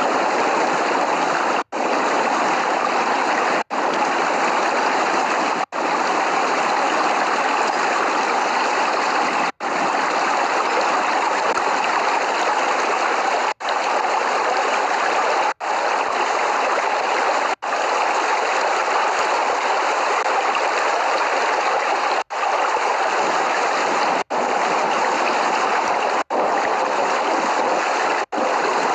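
Steady, heavy rain noise, a dense even rush with no thunder, cut by a split-second dropout to silence about every two seconds, like the seams of a short looped recording.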